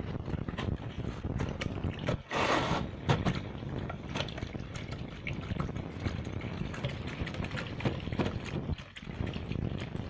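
Water being stirred and sloshed in a container to dissolve SLS (sodium lauryl sulfate) powder, with many small knocks and clicks. There is a short, louder rush of liquid a little over two seconds in.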